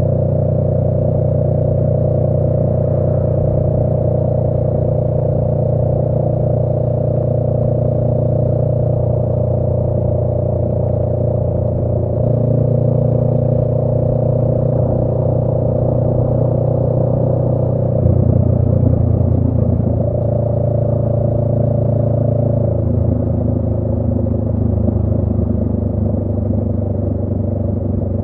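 2018 Honda Rebel 500's 471 cc parallel-twin engine running under way through a Radiant Cycles Shorty GP aftermarket exhaust, a steady, loud engine note. The note shifts to a new pitch about twelve seconds in, again around eighteen seconds with some added rushing noise, and once more near twenty-three seconds.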